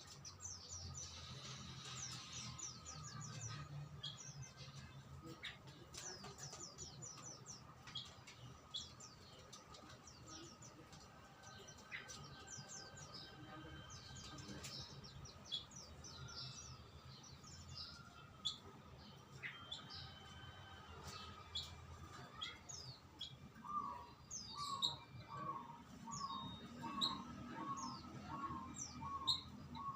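Songbirds chirping: a steady run of quick, high, falling chirps, joined about three-quarters of the way in by a lower note repeated about twice a second.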